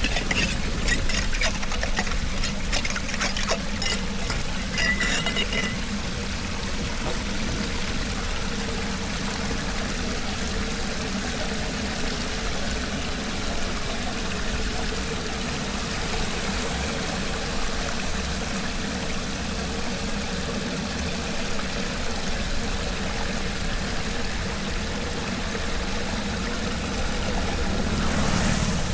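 Floodwater pouring steadily into a cleared storm drain, with a low steady hum underneath and some clicks in the first few seconds.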